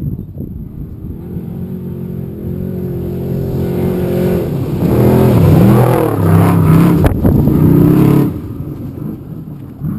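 Trophy truck engine running loud, building over the first few seconds, then revving up and down at its loudest for about three seconds before easing off near the end. One sharp click is heard partway through the loud stretch.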